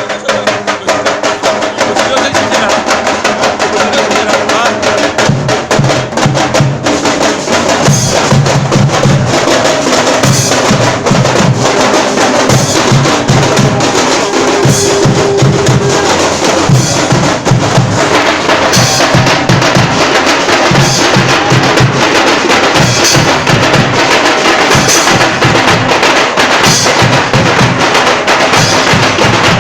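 Fast, loud, continuous drumming by several drums playing together, with deep bass drum beats joining about five seconds in.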